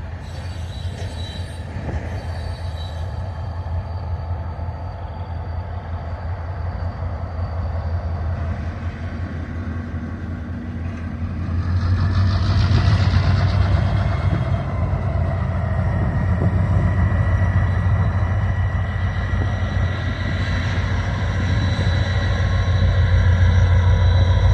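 Train rolling past on the rails, a steady low rumble that grows louder about halfway through, with faint thin squealing from the wheels.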